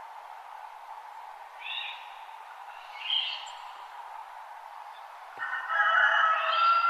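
Wild birds calling at dawn: a short chirp about two seconds in and another about three seconds in, then from about five and a half seconds a louder, longer call with several held notes, over a steady low hiss.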